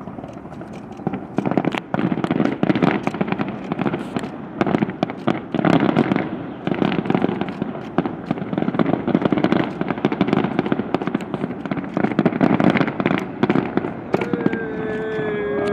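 Fireworks going off in dense, rapid volleys of overlapping cracks and pops. Near the end a held pitched tone with overtones comes in over them, sliding slightly down.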